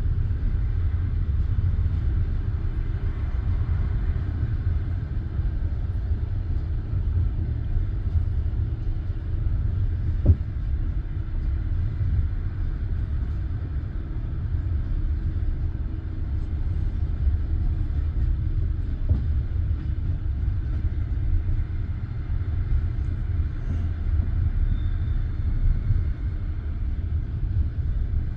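Passenger train carriage rumbling steadily as it rolls along the track, with one sharp knock about ten seconds in.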